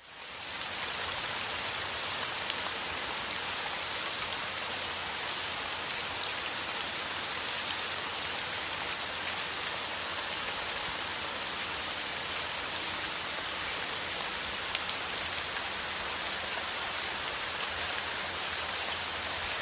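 Steady rain falling, fading in over the first second and holding an even hiss, with individual drops ticking through it.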